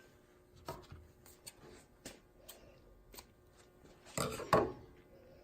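Hands threading the top thread of a walking foot sewing machine: scattered small clicks and rustles of thread and fingers on the thread guides and tension discs, with a louder cluster of clicks and rustling about four seconds in.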